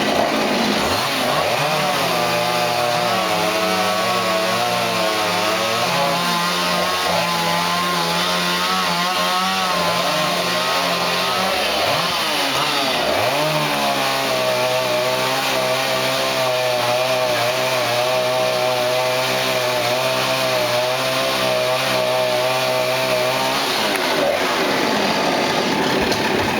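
Two-stroke chainsaw at full throttle cutting wood, in two long stretches of about ten seconds each. The engine drops back briefly between them and again near the end.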